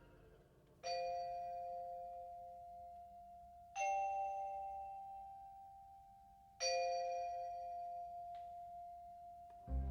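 Three slow strikes of a bell-like chime, about three seconds apart, each ringing on and fading away; the middle strike is pitched a little higher than the other two.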